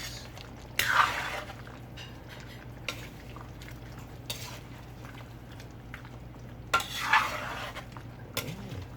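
A spoon stirring food in a cooking pot, scraping and clinking against the pot. The clatter is loudest about a second in and again about seven seconds in, over a steady low hum.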